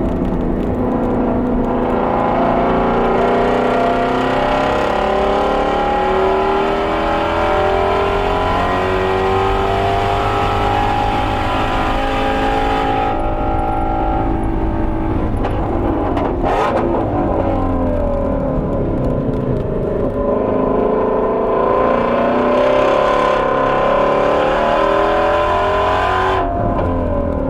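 Shelby GT350R's 5.2-litre flat-plane-crank V8 under hard acceleration on track, its pitch climbing for about twelve seconds. Around the middle it falls away with a sharp crack as the driver lifts and slows, then it climbs hard again and drops off near the end.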